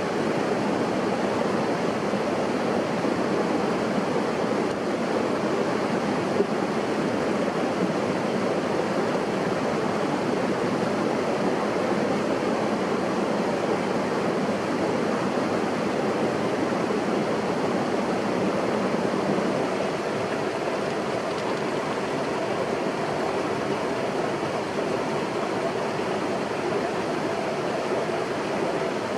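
Steady rushing of water that runs on without pause.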